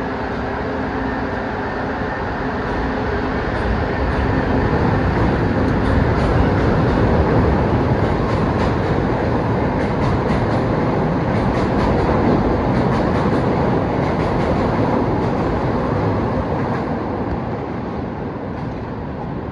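CTA 'L' rapid-transit train pulling out of an elevated station and running past: a steady hum at first, building to the noise of wheels on the rails with repeated clicks, loudest in the middle and fading as the last car pulls away near the end.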